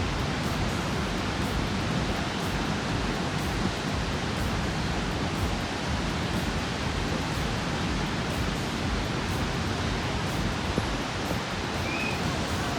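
Steady roar of rushing water from the Gaganachukki waterfall, an even noise with no pauses.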